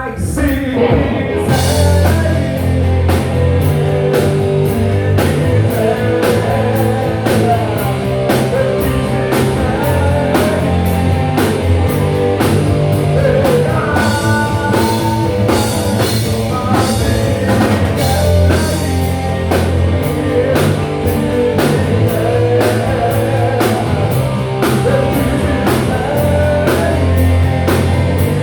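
Live rock band playing a song, with drum kit, electric guitar and bass and some singing; the band comes in sharply at the start after a brief pause.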